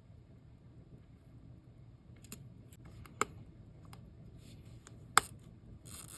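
Scattered small, sharp clicks and taps of metal watchmaker's tools on watch movement parts during reassembly, with a few soft rustles; the loudest click comes a little past five seconds in.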